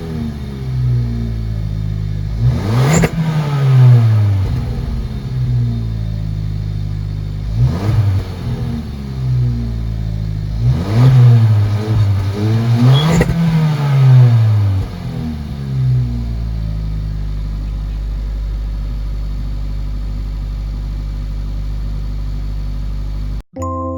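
Suzuki Swift Sport engine revved through its exhaust: a series of quick rev blips, each rising and falling back, then settling to a steady idle for the last several seconds.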